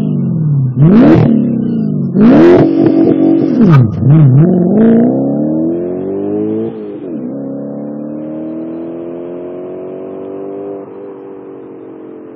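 Audi S4 Cabriolet's V8 through a non-resonated LaBree exhaust, revved sharply several times and held high, then launched and pulling hard up through the gears. Two gear changes come about seven and eleven seconds in, and the sound fades as the car pulls away.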